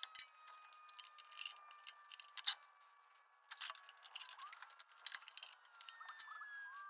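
Irregular sharp clicks and ticks of hand tools working on the metal fittings of hydraulic hoses.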